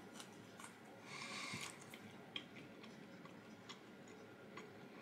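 Faint chewing of a bite of crispy microwaved karashi renkon (mustard-stuffed lotus root), with small mouth clicks and a short breath-like hiss about a second in.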